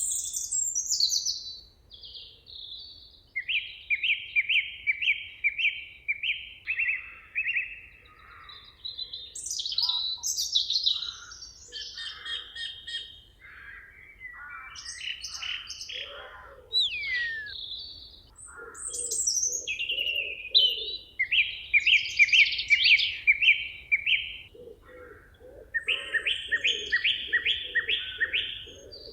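Several songbirds singing over one another in a forest: repeated phrases of quick high notes and whistles, joined by lower repeated calls from about halfway through.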